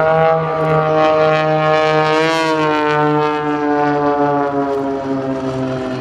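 Propeller aerobatic aircraft flying past; its engine note rises to a peak about two seconds in, then falls steadily in pitch as it moves away.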